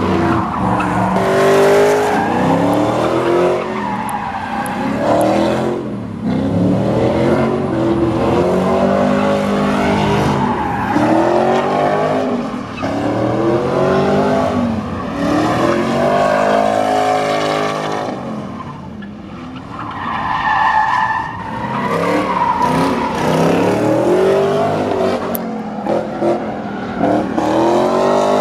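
Truck engine revving hard again and again, its pitch rising and falling every second or two.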